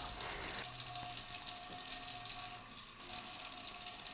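Water running steadily from a tap, with a brief lull a little after halfway.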